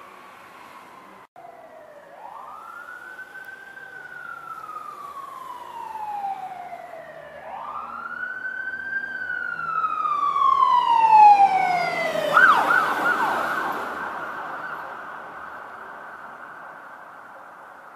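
Fire apparatus siren wailing, rising and falling slowly twice, then switching to a rapid yelp about twelve seconds in, with the rumble of the truck's engine underneath. It grows louder as the apparatus passes, then fades away.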